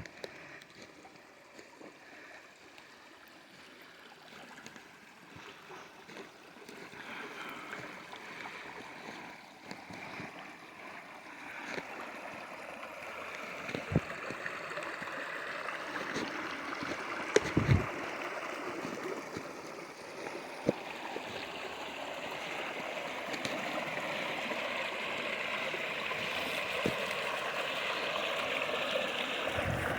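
Water flowing in a stream channel, a steady rush that grows gradually louder, with a few brief knocks or bumps partway through.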